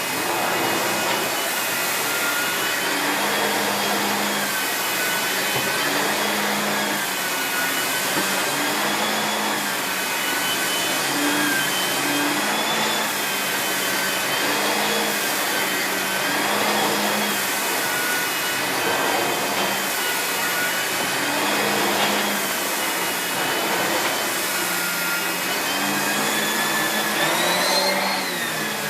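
Miele S8730 (C3 Complete) 2200 W cylinder vacuum cleaner running while vacuuming. Its motor whine rises and falls gently in pitch about every two seconds, with a low hum pulsing in step. The pitch climbs briefly near the end.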